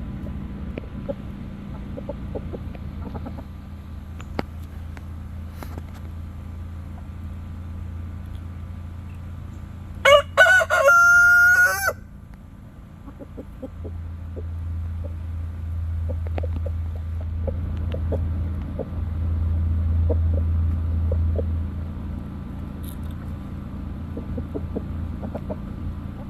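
A blue laced red Wyandotte rooster crows once, about ten seconds in: a loud, pitched call lasting about two seconds. A low rumble runs underneath.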